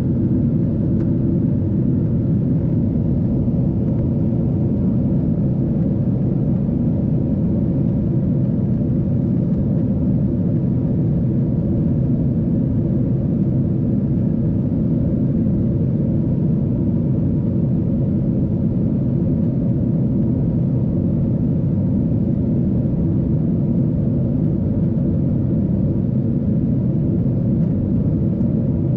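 Steady low cabin roar of a Boeing 777-300ER in flight, the engine and airflow noise heard from a window seat, with a faint steady hum running through it.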